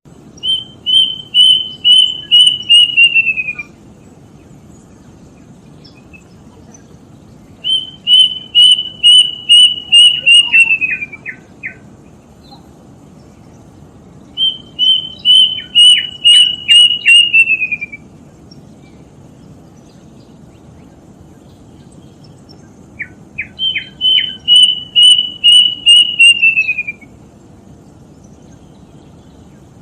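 Kedasih cuckoo singing: four phrases of about nine short, clear whistled notes on one high pitch, each run sagging lower at the end and a few lower notes tacked on, separated by pauses of a few seconds.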